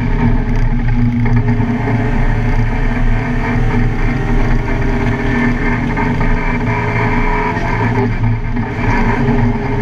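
Car engine running hard and steady under load on a race track, with a brief change in pitch about eight seconds in as the driver eases off or shifts.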